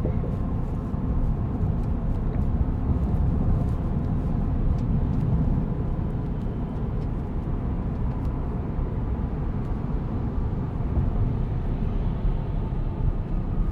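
Road and tyre noise heard inside the cabin of a moving Tesla Cybertruck: a steady low rumble with no engine note, the truck being electric.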